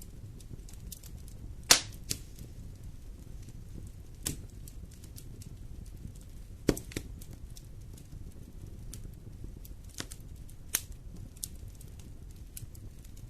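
Wood fire in a fireplace crackling over a steady low rumble of flames, with several sharp pops from the burning wood; the loudest comes about two seconds in.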